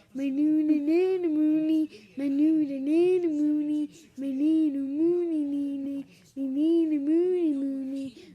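A high voice sing-song chanting the same short phrase, "my neeny moony", over and over: four identical repeats of about two seconds each, every one with the same rise and fall in pitch in the middle.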